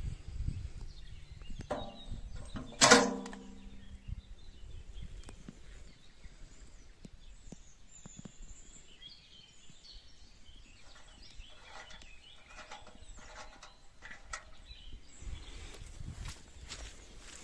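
A single loud clang, about three seconds in, that rings on and fades over about a second, like a metal object struck or set down. A smaller knock comes just before it, and light handling clicks follow.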